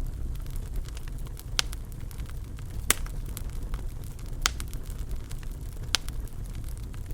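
Wood fire burning in a fireplace: a steady low rumble with scattered crackles and sharper pops, the loudest about every second and a half.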